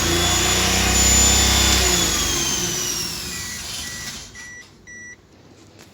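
Maruti Alto K10 engine running with a high, steady whistle, taken for an air leak at the intake manifold or throttle body. About two seconds in the engine stops, and the whistle falls in pitch and fades away. Four short electronic beeps come near the end.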